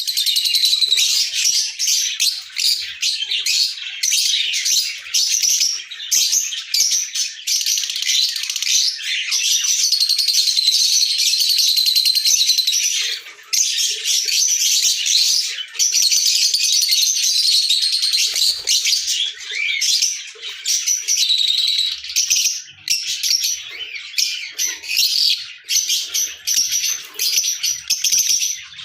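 Lovebirds chirping and chattering nonstop, many high-pitched calls overlapping with hardly a pause.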